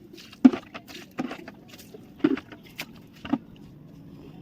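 Footsteps: four short thuds, about a second apart.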